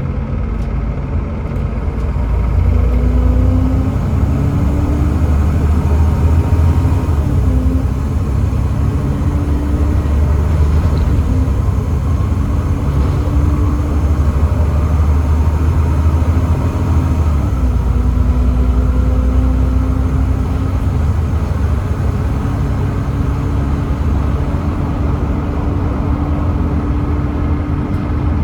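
Volvo D7C 7.3-litre diesel engine of a Volvo B7TL double-decker bus under way, its note climbing in steps as the ZF Ecomat automatic gearbox changes up several times, over a heavy low rumble.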